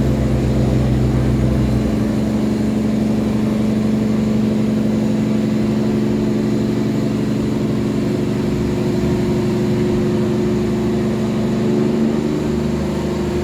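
Tugboat's diesel engine running steadily under load while towing loaded cargo barges: a loud, even drone with a low tone that drops out about two seconds in and a slight shift in pitch near the end.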